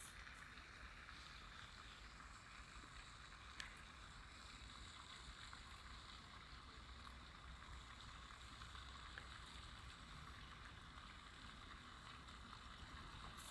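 Faint, steady outdoor ambience: an even hiss with a low rumble beneath it, and a single brief click about three and a half seconds in.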